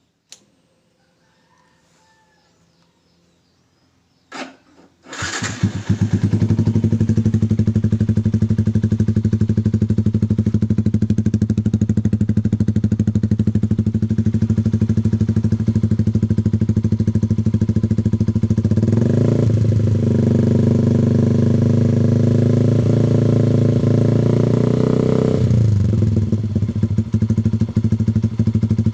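Yamaha MX King 150's single-cylinder four-stroke engine through an original Proliner exhaust, started about five seconds in after a click, then idling steadily. It is revved up twice in the second half.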